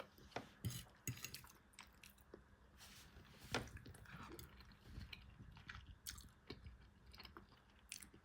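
A person chewing a mouthful of curried chickpeas and potato, faint, with scattered small clicks; one sharper click about three and a half seconds in.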